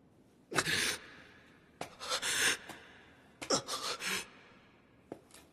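A man's voice gasping: three sharp, breathy gasps about a second and a half apart, then a faint one near the end.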